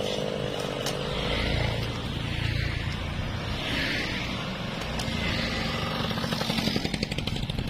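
Newwest 628 two-stroke chainsaw engine running, its speed rising and falling, with a fast rattle of ticks near the end.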